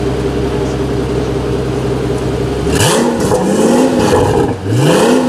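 Pagani Huayra BC's twin-turbo V12 idling steadily, then blipped hard a little under three seconds in: about three quick revs, each a sharp rise and fall in pitch.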